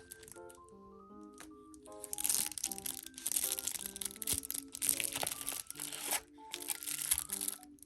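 Crinkly plastic wrapper of a packaged snack bread being handled and torn open: several rustling, crackling bouts starting about two seconds in, over background music.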